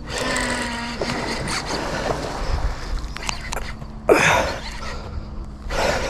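Fishing reel drag buzzing as a hooked barramundi pulls line off, with two loud sudden bursts of sound about four and six seconds in.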